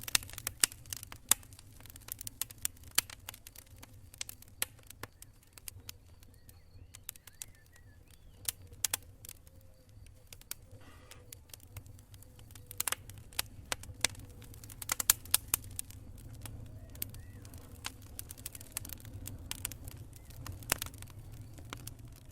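Wood campfire crackling: irregular sharp pops and snaps of burning wood, busiest near the start and around the middle, over a low steady rumble.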